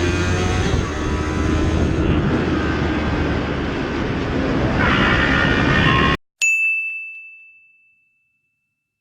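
Riding noise from a Yamaha YZF-R3's parallel-twin engine through an Akrapovic full-system exhaust, mixed with wind, steady and swelling a little near the end. It cuts off suddenly, and a single bell-like ding rings out and fades over about a second and a half into silence.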